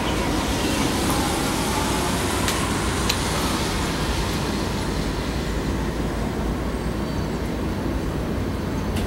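Steady low rumble of vehicle noise, with a couple of faint clicks about two and a half and three seconds in.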